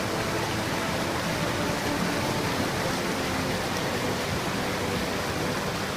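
Steady rushing of river rapids, an even hiss of fast-moving water.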